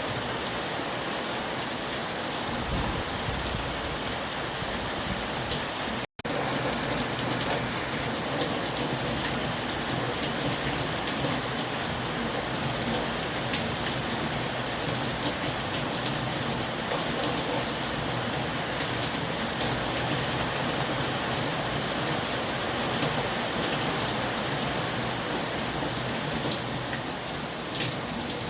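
Heavy rain falling steadily, with many separate drops hitting a surface. About six seconds in the sound cuts out completely for a split second, then resumes slightly louder.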